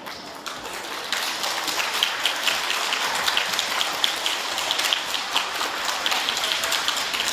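Audience applauding, a steady dense clapping that swells up about a second in, welcoming the string ensemble onto the stage.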